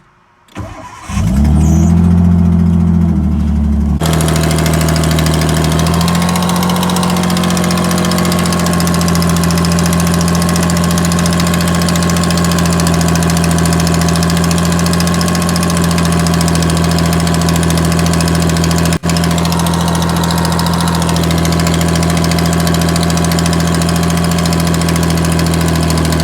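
Nissan S14's engine starting about half a second in and then idling steadily, run up to temperature so the water pump circulates freshly added coolant and bleeds air out of the cooling system. There is a brief break in the sound a little past the middle.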